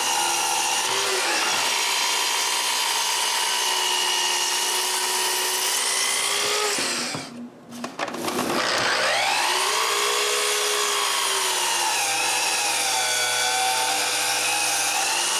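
Electric woodworking power tool's motor running at high speed on wood, its pitch dipping now and then. About seven seconds in it winds down almost to a stop and is switched back on, rising to speed again.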